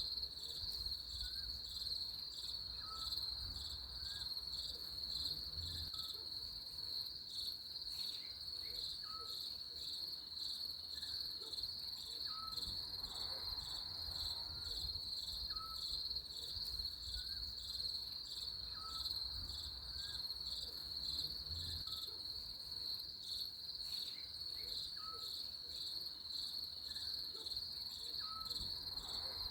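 Crickets chirping in a steady, high, rapidly pulsing trill. A short soft call repeats about once a second underneath, over a faint low rumble.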